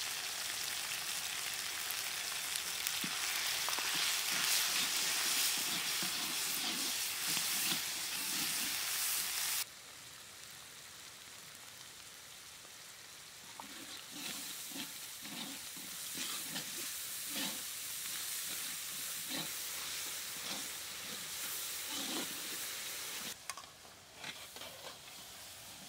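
Onions and green chillies frying in hot oil in a large metal karahi, sizzling, while a metal spatula stirs and scrapes the pan in repeated strokes. The sizzle drops suddenly about ten seconds in. Near the end, pieces of fish go into the pan and it hisses and steams.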